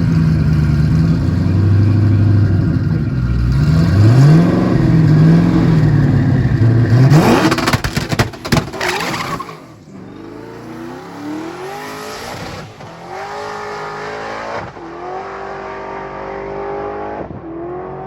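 V8 sports car engine revving up and down hard, then a burst of sharp crackles. After that the engine drops in level and pulls through three gears, its pitch climbing in each.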